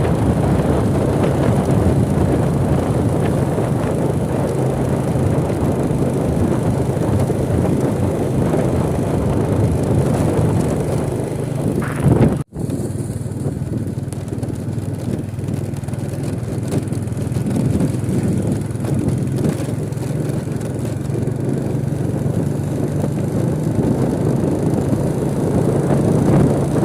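Steady drone of a moving vehicle: a low engine hum under road noise, cutting out for an instant about halfway through.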